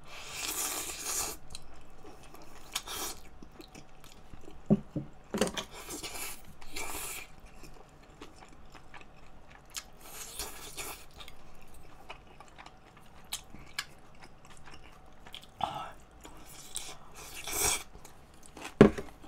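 Close-miked eating of a cheese-topped kimchi fried rice: chewing and mouth noises that come in short bursts every few seconds, with scattered small clicks.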